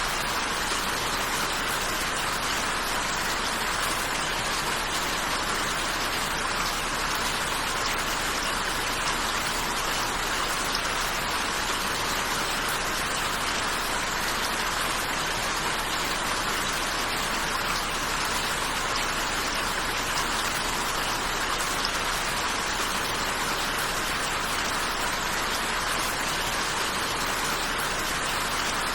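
Steady rain falling, an even, unbroken hiss of drops with no single drop or drip standing out.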